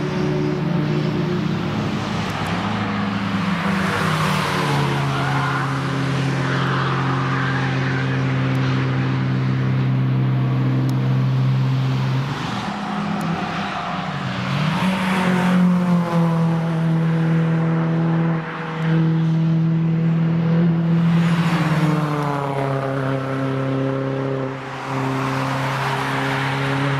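Cars passing at speed on the Nürburgring Nordschleife, several in turn, each rising and fading with engine and tyre noise over a steady drone of engines elsewhere on the circuit.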